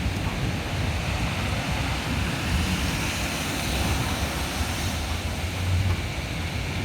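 Heavy thunderstorm downpour with wind: a steady rushing of rain, with a low rumble that swells twice.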